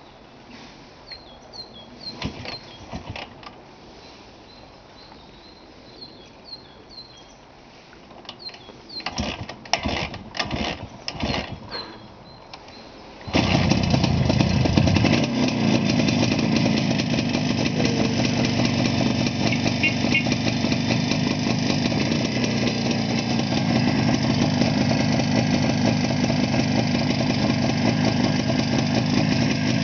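Jawa 350/634 two-stroke twin being kicked over, a few knocks from the kickstart, then catching suddenly about 13 seconds in and running steadily on its first start after winter storage.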